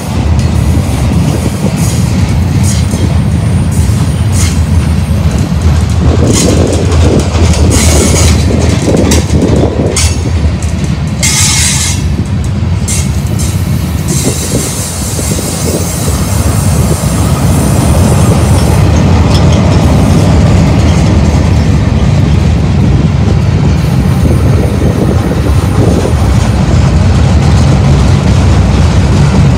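Freight train cars rolling past close by: a steady, loud rumble of steel wheels on the rails, with a few sharp clanks from the cars and couplers.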